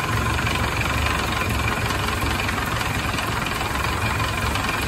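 Ford Model A four-cylinder flathead engine idling steadily while it warms up, with coolant temperature rising at the radiator.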